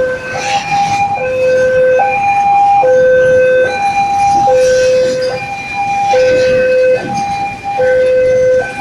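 Two-tone electronic warning siren, alternating steadily between a lower and a higher tone about every 0.8 seconds, the pitch holding steady without rising or falling.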